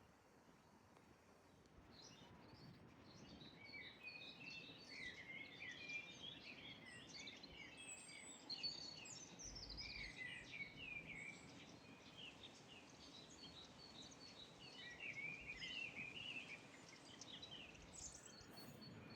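Faint songbird singing: a long run of quick chirps, trills and short pitch glides that starts about two seconds in, over a faint steady background hiss.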